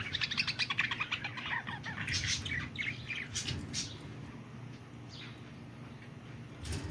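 Small birds chirping: a dense run of quick, high chirps for about four seconds, then a few fainter ones.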